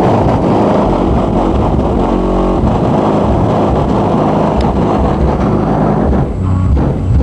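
Car audio system playing bass-heavy music at extreme volume: a loud, dense, distorted low rumble with little clear tune.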